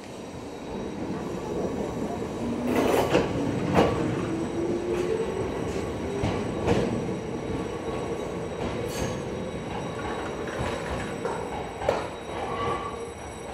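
Hokuriku Railroad Ishikawa Line electric train pulling out and moving away: the traction motor whine rises in pitch as it accelerates, with the wheels clacking over rail joints and a brief wheel squeal near the end as it takes the curve.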